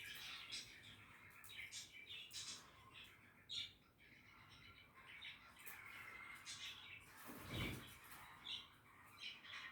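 Budgerigars chirping and warbling faintly in quick, irregular notes. About seven and a half seconds in there is a short, louder low rustle or thump.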